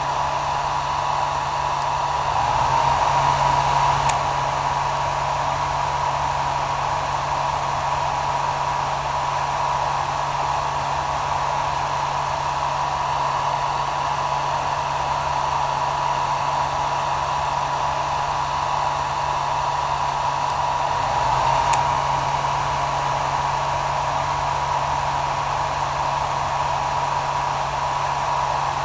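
Hair dryer running steadily, an even rush of air with a steady whine and a low hum underneath. The sound swells slightly twice, a few seconds in and again about 21 seconds in, each time ending in a faint click.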